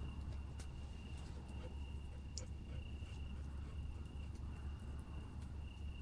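A cricket trilling steadily at a high pitch over a constant low rumble, with a few faint clicks.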